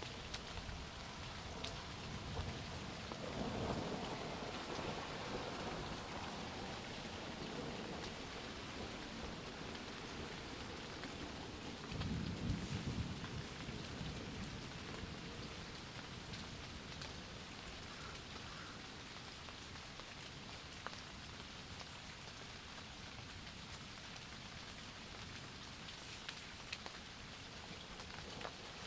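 Steady rain falling, with scattered sharp drop taps, and low thunder rumbling twice, about three seconds in and again about twelve seconds in.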